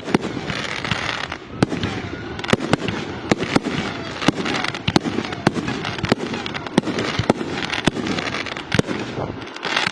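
Fireworks display: a quick, irregular string of sharp bangs, often two or three a second, over a continuous haze of noise between them.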